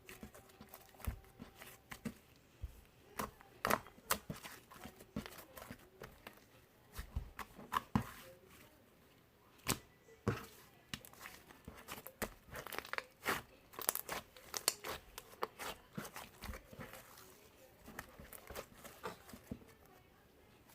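Irregular crackling and rustling with many sharp clicks at an uneven pace, like something crinkly being handled close to the microphone.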